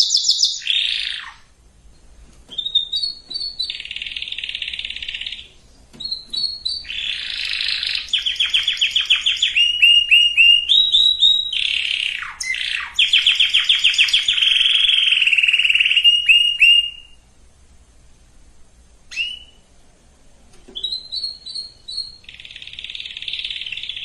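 Domestic canary singing: phrases of fast, even trills and rolls with a few quick falling whistles, broken by short pauses and one longer pause a little past the middle.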